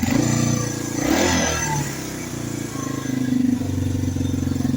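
Yamaha TW200's single-cylinder four-stroke engine running just after being started on fresh oil. It is revved a little in the first second or two, then settles to an even idle; it runs smoothly, "like a kitten".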